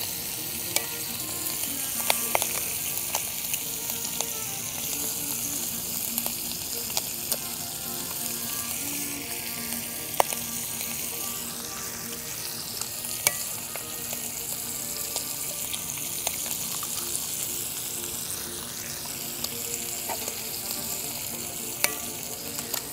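Bacon and eggs sizzling in a frying pan over a wood-fired firebox stove: a steady frying hiss with scattered sharp pops.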